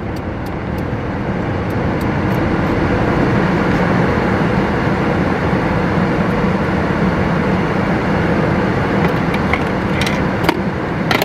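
Steady, loud motor noise with a low hum. It builds over the first few seconds and then holds, with a few sharp clicks near the end.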